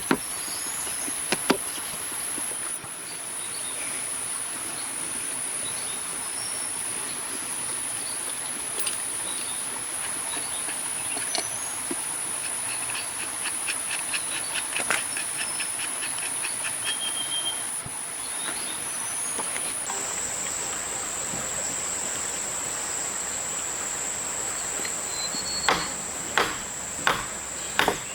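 Steady high-pitched insect chirring that steps down in pitch about two-thirds of the way through, with scattered faint taps and, near the end, a run of sharp knocks.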